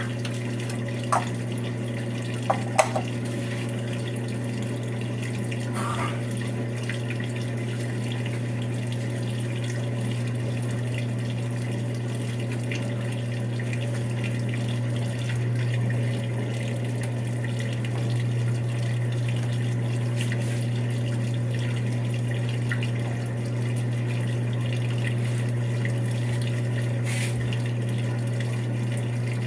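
Brastemp 5 kg washing machine running between wash stages: water flowing through the tub over a steady low electric hum, with a few short clicks in the first few seconds.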